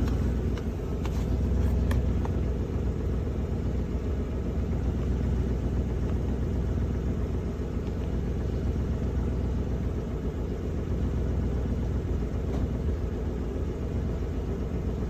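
Car engine idling: a steady low rumble, with a few light clicks in the first two seconds.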